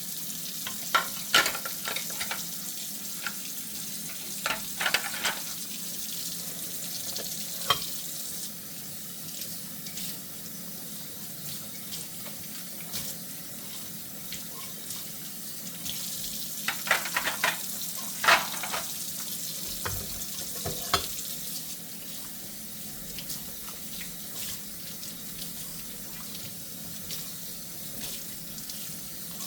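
Kitchen faucet running steadily into a sink during hand dishwashing, with scattered sharp clinks and knocks of dishware. The clinks come in two clusters: over the first several seconds and again around two-thirds of the way through.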